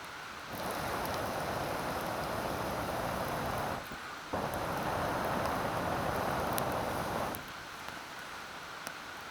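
Two long hissing rushes, each about three seconds, starting and stopping abruptly with a short pause between them, over a steady background hiss.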